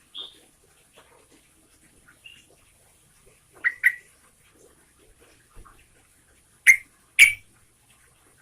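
Yellow-vented bulbul (trucukan) giving short, sharp call notes with gaps between them, the loudest coming in pairs about halfway through and again near the end.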